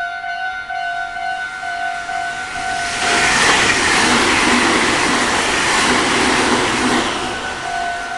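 Japanese level-crossing alarm ringing in steady, even pulses while a Meitetsu electric train passes through the crossing at speed, from about three seconds in to about seven seconds; the train's running noise covers the bell while it passes.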